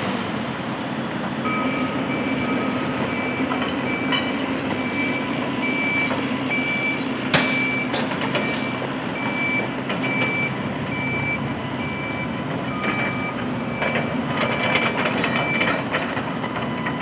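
Reversing alarm of a construction machine beeping steadily at about one beep a second, over the low, steady running of heavy machinery engines. A single sharp click sounds about halfway through.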